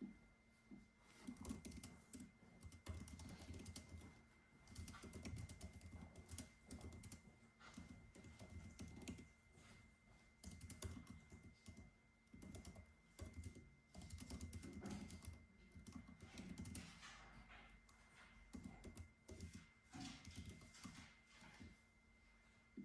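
Faint typing on a computer keyboard: quick runs of key clicks lasting a second or two, broken by short pauses.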